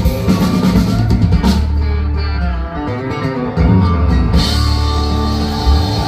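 Live country band playing an instrumental passage between sung lines, with drum kit, bass and electric guitar. The high end thins out for about two and a half seconds mid-way, then the full band comes back in.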